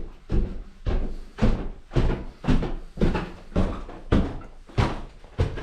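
A series of evenly spaced knocks, about two a second.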